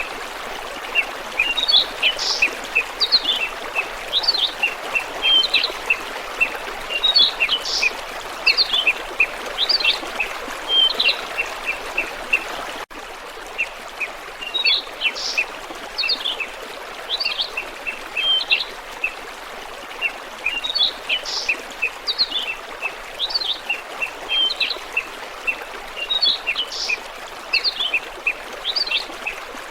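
Small birds chirping and twittering in quick high bursts over the steady rush of flowing water. The same run of chirps repeats about every 13 seconds, with a brief dropout about 13 seconds in.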